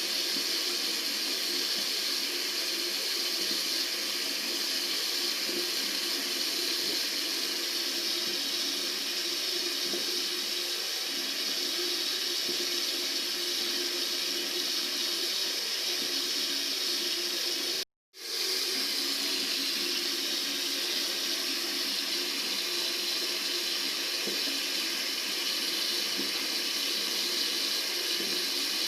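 Tap water running steadily from a faucet into a sink, a continuous splashing rush. It cuts out completely for a moment about two-thirds of the way through, then comes straight back.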